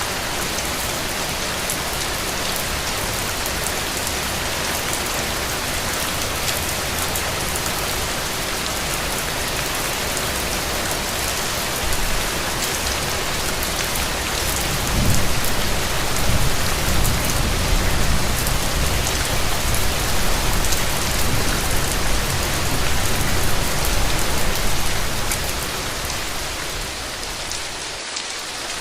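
Steady rain falling on a road and hard surfaces, an even hiss. About halfway through, a low rumble swells in under the rain and lasts some ten seconds before fading.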